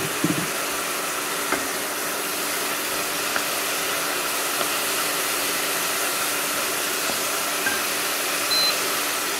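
Onions, garlic and mushrooms sizzling steadily in oil in a pot as their water cooks off, with a low steady hum underneath and a few faint taps of a wooden spoon.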